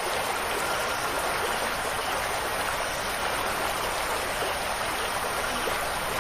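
Steady, unbroken water sound, an even dense hiss of running or falling water with no changes in level.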